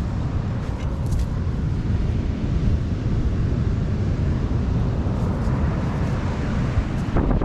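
Strong wind buffeting the microphone in a steady deep rumble, with surf beneath it and a couple of brief knocks near the end.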